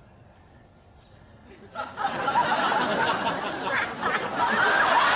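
Studio audience laughing, breaking out suddenly about two seconds in after a near-quiet start and continuing loudly.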